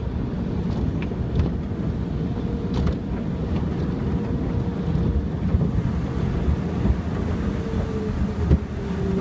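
Automatic car wash heard from inside the car: the steady rumble and hiss of the cloth and sponge washers working over the body, with a faint machine hum that drops a little in pitch near the end and a few light knocks.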